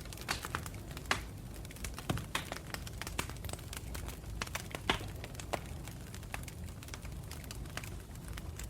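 Campfire burning steadily with a low rumble and irregular crackling, a few louder pops among many small snaps.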